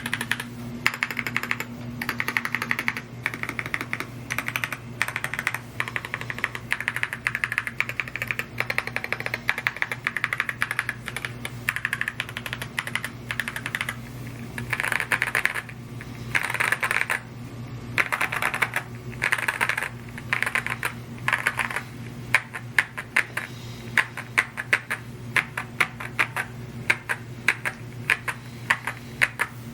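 Continuous fast typing on a Rainy75 mechanical keyboard: a dense stream of key clacks coming in quick runs of strokes, over a low steady hum.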